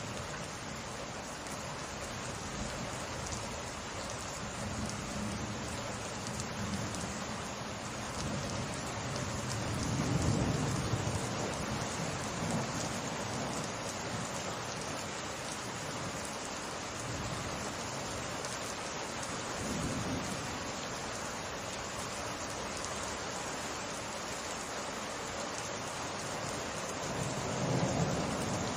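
Steady summer rain falling on surfaces, with low rolls of thunder swelling under it. The loudest roll comes about a third of the way in, a shorter one about two-thirds in, and another near the end.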